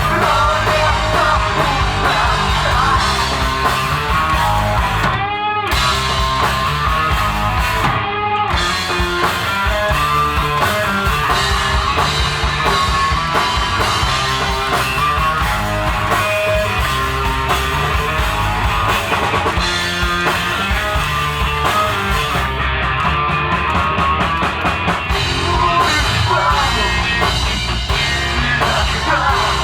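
Live rock band playing loud, with guitar, drum kit and singing.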